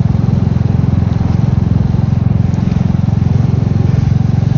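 Royal Enfield Meteor 350's single-cylinder engine running at a steady speed under way, with an even beat of exhaust pulses.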